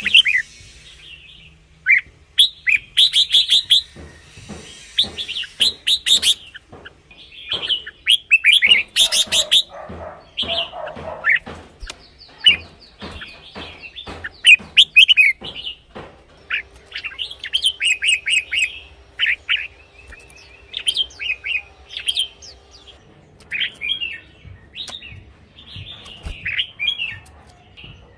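Red-whiskered bulbuls singing, short quick warbling phrases repeated in bursts with brief pauses between them, mixed with sharp clicks.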